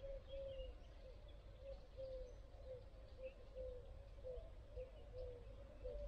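A bird repeating a short, low, slightly falling note about three times a second, with faint high chirps from other birds.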